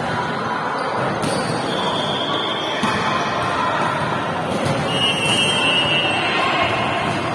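A volleyball being struck and bouncing on an indoor court, a few sharp impacts ringing in a large hall over a steady background din.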